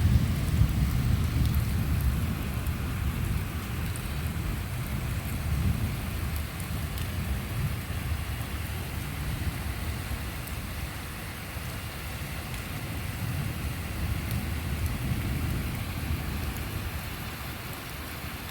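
Thunder rumbling, loudest at the start and slowly dying away over about ten seconds, over steady rain.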